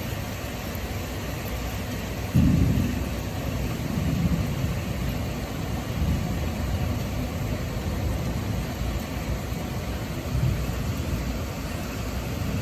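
Thunder in a heavy rainstorm: a steady hiss of rain and wind, with a sudden loud crack of thunder about two seconds in that rolls on as low rumbling, swelling again several times.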